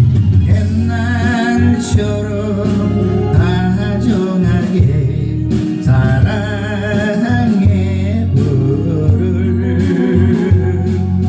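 A solo voice singing a Korean ballad with vibrato, over a keyboard and bass backing.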